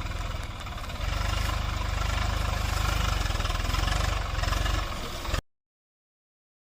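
Tractor diesel engine running with a steady low chug, getting louder about a second in, then cutting off abruptly.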